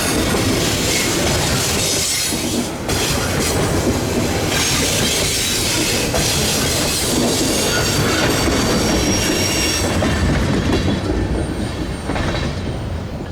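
Cars of a Norfolk Southern manifest freight train rolling steadily past on the rails, with faint high-pitched wheel squeal coming and going.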